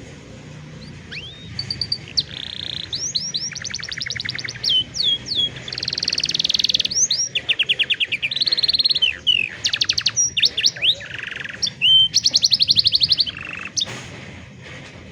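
Domestic canary singing: a long song of fast trills and quickly repeated notes, some sweeping up or down in pitch, in phrases with short gaps between them. The song stops near the end.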